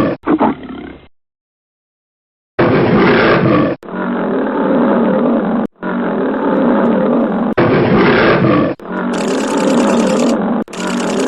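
Big cat roaring and growling in a series of spliced clips. A short growl comes first, then a pause of about a second and a half, then a run of back-to-back rough roars, each starting and stopping abruptly.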